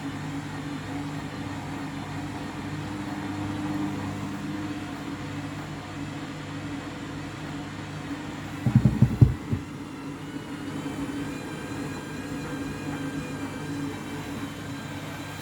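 Candy washing machine's drum motor turning steadily during the load-distribution stage of a trainers cycle. A little past halfway there is a quick cluster of heavy thumps as the trainers knock in the drum. After that a whine sets in and rises slightly as the motor begins to speed up toward the final spin.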